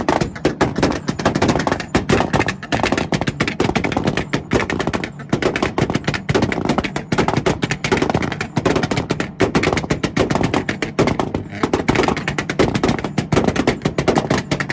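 Two cars, a Volkswagen and a Nissan, held on their two-step launch-control rev limiters at the same time: a rapid, unbroken string of exhaust pops and bangs, many a second, over the engines' drone at the limiter.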